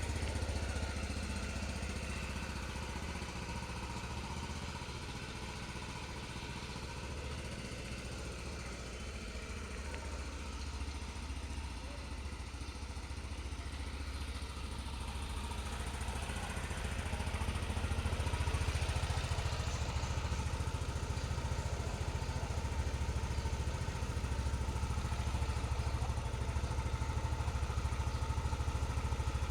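2025 TVS Jupiter 113 scooter's single-cylinder four-stroke engine idling steadily while it warms up from a morning cold start, getting somewhat louder a little past halfway.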